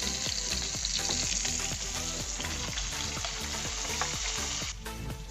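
Quail frying in hot oil, a steady sizzle full of small pops and crackles. The sizzle drops away abruptly near the end.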